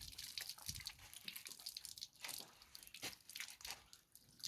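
Irregular rustling and crackling handling noise: a dense run of small clicks and crinkles, with no steady tone.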